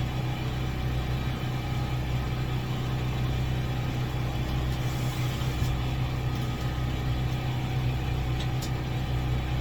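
Steady low mechanical hum of running machinery, engine-like and even, with a couple of faint ticks near the end.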